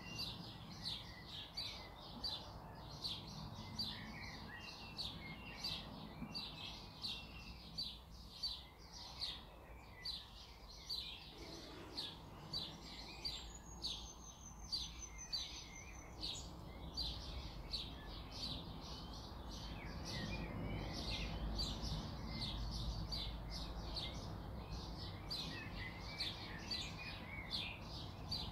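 A bird chirping over and over, about three short chirps a second, with one thin whistle a little past the middle.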